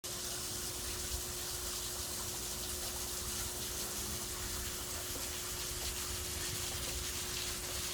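Waterfall splashing in a steady, unbroken rush of water, with a faint steady hum underneath.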